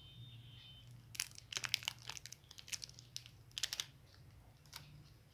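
Candy wrapper crinkling in several short bursts of crackling, handled by hand, over a faint steady low hum.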